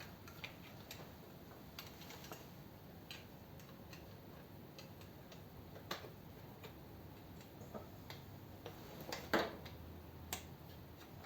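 Scattered light clicks and taps of hand tools and small metal fittings being handled, irregular rather than rhythmic, with a louder knock about nine seconds in.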